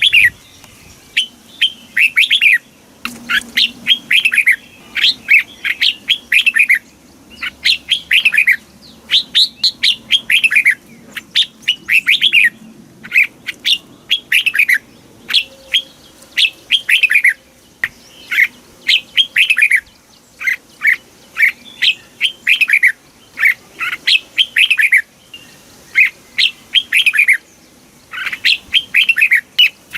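Red-whiskered bulbul song: short, bright phrases of quick whistled notes falling in pitch, one after another with brief gaps.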